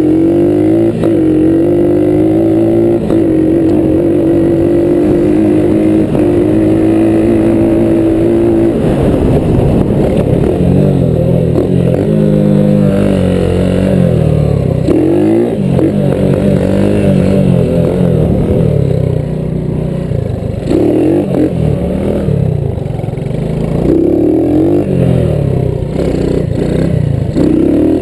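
Small four-stroke single-cylinder engine of a Honda ATC 70 three-wheeler at full throttle in a race. Its pitch climbs and holds high for about eight seconds, then revs up and drops off again and again as the throttle is eased and reopened.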